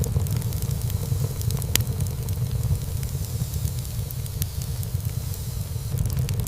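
Wood fire burning in a fireplace: a steady low rumble of flames with a hiss over it, and a few scattered sharp crackles and pops from the burning wood.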